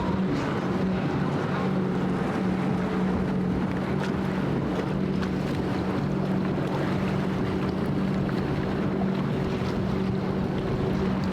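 Boat engine running steadily, a constant low hum, with wind on the microphone and rushing water.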